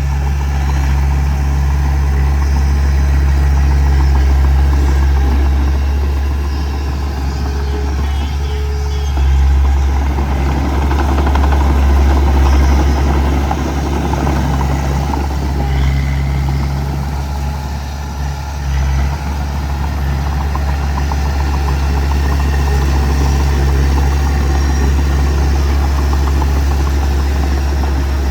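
Small bulldozer's diesel engine running with a steady low drone, its loudness swelling and easing every few seconds.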